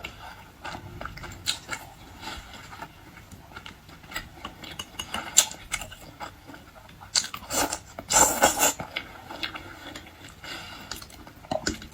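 Close-miked chewing and biting of food: wet mouth sounds with scattered small clicks, and a louder burst of noise about seven and a half seconds in.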